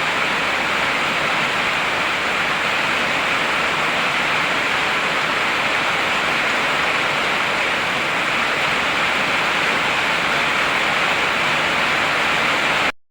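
Heavy rain falling in a steady, dense hiss that cuts off suddenly into silence near the end.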